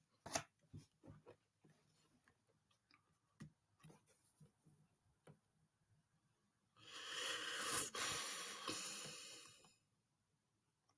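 Faint scattered clicks, then a hissing, rushing noise about seven seconds in that lasts roughly three seconds.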